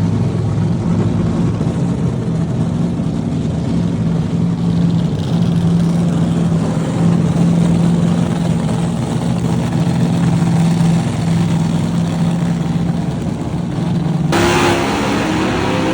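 An engine running steadily at one constant speed, loud and without revving up or down. It cuts off abruptly near the end, where music takes over.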